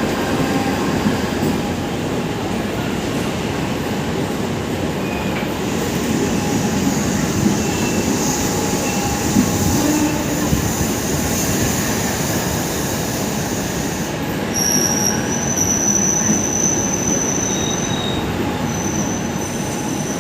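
Electric multiple-unit suburban local train pulling out, its wheels and cars running with a steady rumble. A high wheel squeal sets in about six seconds in, and sharper, higher squealing tones come and go through the last third.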